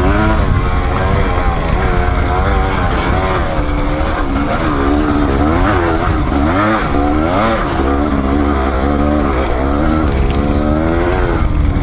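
Dirt-bike engine being ridden hard off-road, revving up and down over and over as the throttle is worked, its pitch rising and falling every second or so.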